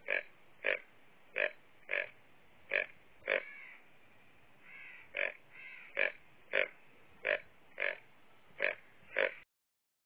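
An animal's short, sharp calls repeated about once or twice a second, about a dozen in all, with a short pause midway; they stop abruptly near the end.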